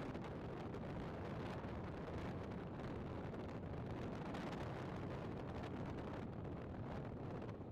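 Strong wind blowing hard, a steady rushing noise with wind buffeting the microphone.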